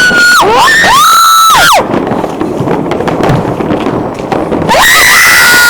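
New Year's fireworks: a crackling spell of bangs and pops between two long, loud, high-pitched whistling shrieks, the first near the start and the second near the end, each rising, holding its pitch and falling away.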